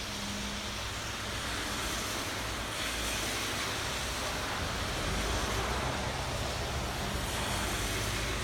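Steady rain falling, an even continuous hiss with a low rumble underneath.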